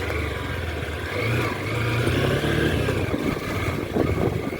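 Honda CB200X's 184.4 cc air-cooled four-stroke engine running as the motorcycle is ridden along a rutted dirt road, its note climbing briefly about a second in.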